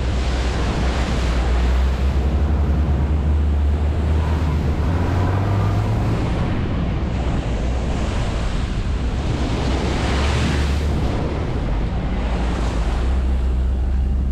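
T-Rex ATV engine running under way, a steady low rumble buried in heavy wind noise on the microphone; the engine note climbs briefly about four to six seconds in.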